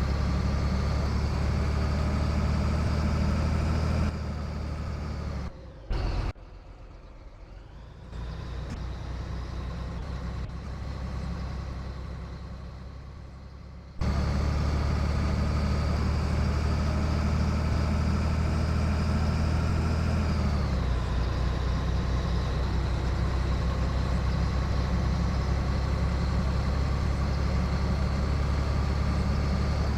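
Scania 113 truck's straight-six diesel engine running under way, a steady heavy drone. It drops much quieter for about ten seconds near the start, then comes back. About twenty seconds in the pitch falls, then climbs slowly.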